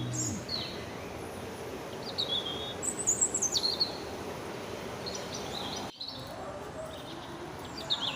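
Wild birds calling outdoors: short chirps that slide down in pitch, repeated every second or two over a steady background hiss of ambient noise, with a brief cut-out about six seconds in.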